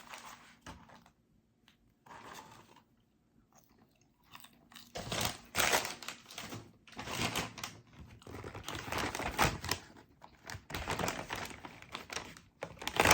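Close, irregular crinkling and crunching of fast food being unwrapped and eaten, starting about five seconds in after a near-quiet stretch.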